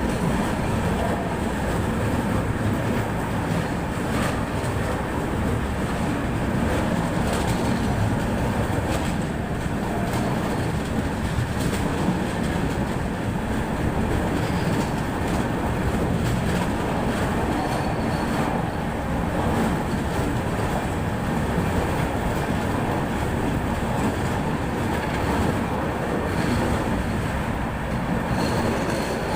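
Netravati Express passenger train running along the track: a steady rumble of wheels on rails with a few faint clicks.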